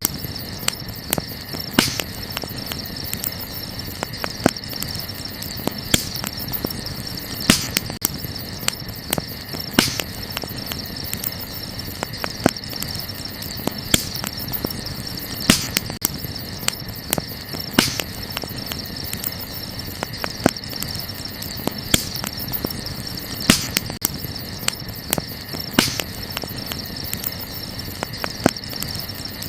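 Wood fire crackling, with irregular sharp pops and snaps over a soft steady bed. A steady high-pitched drone sits underneath throughout.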